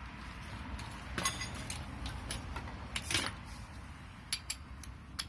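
Light metallic clinks and clicks of hand tools being handled, several short ones and a slightly longer clatter about three seconds in, over a steady low background rumble.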